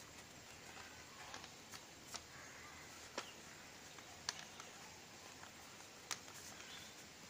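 Faint handling of a folded paper origami bird: a few short, sharp paper clicks and crinkles, spaced irregularly over a low hiss.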